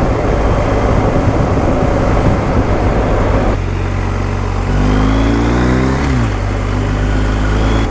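Motorcycle on the move with wind rushing over the microphone; about three and a half seconds in it gives way to the BMW R 1250 GS Adventure's boxer-twin engine, which rises in pitch as it accelerates for about a second and a half, drops at a gear change, then runs steadily.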